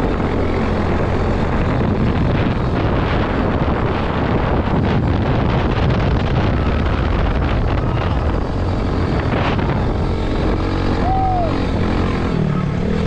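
Quad bike engine running steadily under a dense rushing noise, as while riding.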